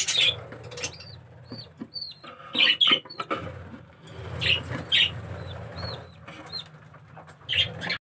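A colony of budgerigars chirping: many short, high chirps repeating, mixed with bursts of wing flapping and rustling.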